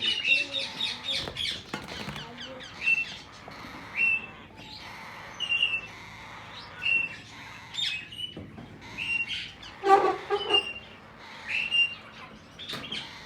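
Aviary parakeets calling: a quick flurry of chirps, then short chirps repeating about every second and a half, with a louder, lower squawk about ten seconds in.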